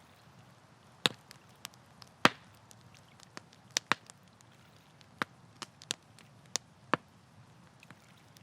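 Wood campfire crackling: irregular sharp pops and snaps, the loudest about one and two seconds in, over a faint low steady background.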